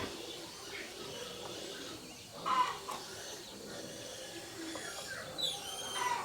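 Birds calling over a quiet background: a loud cluck about two and a half seconds in and a few short high chirps near the end.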